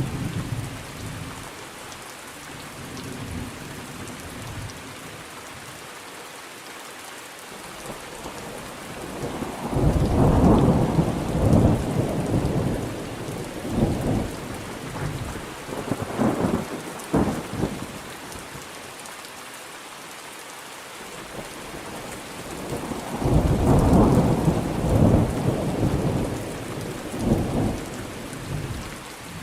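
Steady rain with rolling thunder. A long roll builds about ten seconds in and rumbles in several peaks, and a second roll follows in the last third.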